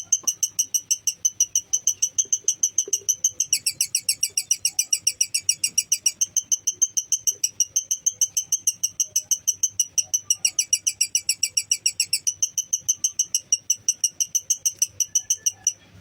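Lovebird's long 'ngekek' chatter: a fast, even string of high-pitched chirps at about five a second. It drops a little in pitch twice for a couple of seconds and cuts off abruptly near the end.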